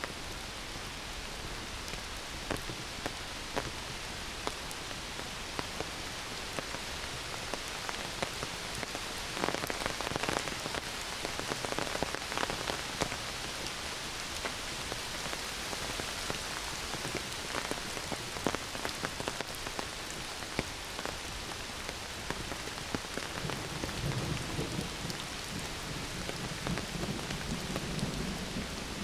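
Heavy rain pouring down through forest foliage, a dense steady hiss with sharp drip ticks. A low rumble of thunder comes in near the end.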